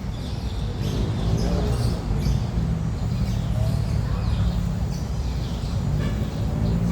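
Faint bird chirps scattered over a steady low rumble of outdoor background noise.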